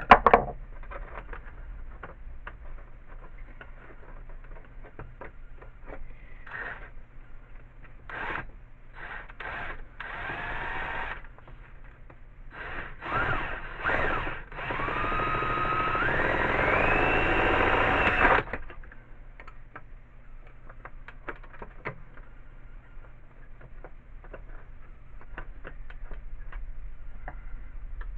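A sharp knock, then an electric drill run in several short trigger bursts and one longer run of about four seconds whose pitch climbs as it speeds up and then stops abruptly. Small handling clicks and taps throughout.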